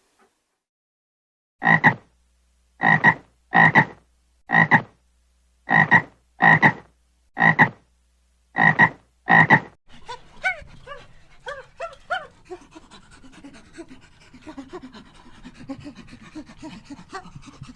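A dog barking about nine times in separate loud barks, then panting with many short, quieter whines and yelps.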